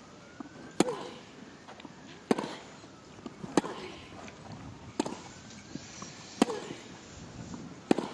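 Tennis rally: rackets striking the ball back and forth, six sharp hits about a second and a half apart.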